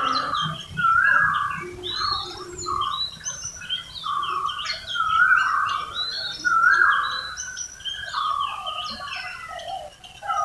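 Several birds chirping and calling in quick, overlapping phrases, with a repeated bright note recurring every second or so.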